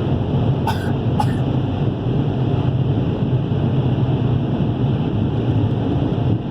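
Automatic car wash air dryers blowing over the car, heard from inside the cabin as a loud, steady rush of air.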